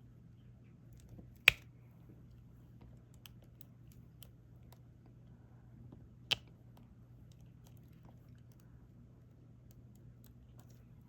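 Diamond-painting drills being picked up with the applicator pen and pressed onto the canvas: faint scattered ticks and light clicks, with two sharper, louder clicks about a second and a half in and about six seconds in, over a low steady hum.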